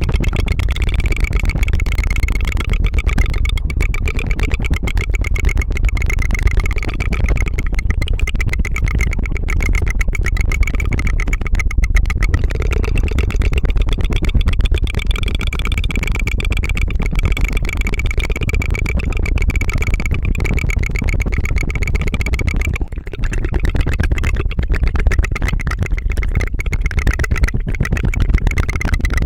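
Rapid tongue fluttering close to the microphone: a fast, continuous 'tu-tu-tu' flutter like a helicopter, with a brief break about 23 seconds in.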